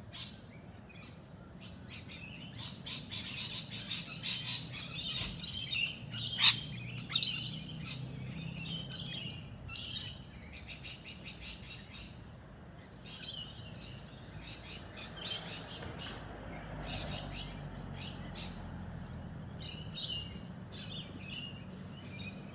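Several birds chirping and singing together in a dense, overlapping chorus of short high calls, busiest in the first half and again near the end, over a faint low hum.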